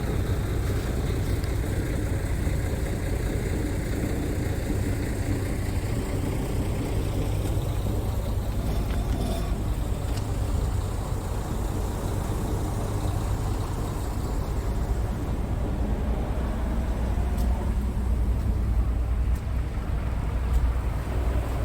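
Scania R tractor unit's diesel engine idling steadily, with a few faint clicks over it.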